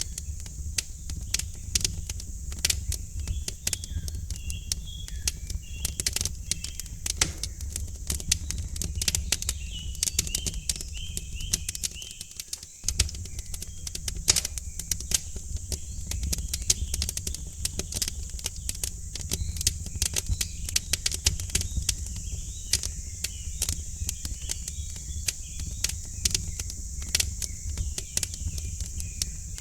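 Wood fire crackling in a fireplace, with frequent irregular sharp pops over a low steady rumble and a steady high hiss. Faint bird chirps come and go in the background.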